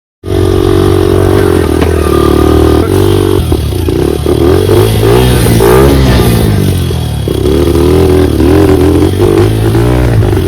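Enduro dirt bike engine running on a trail ride, revving up and down so its pitch rises and falls again and again. It cuts in abruptly just after the start.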